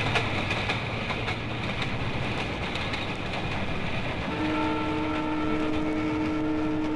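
A train running with a rumble and clicking wheels. About four seconds in, its horn starts and holds a steady chord of several notes.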